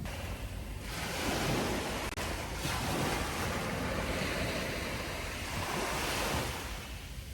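Sea surf washing onto a beach, a wave's rush swelling about a second in and easing off near the end, with wind rumbling on the microphone.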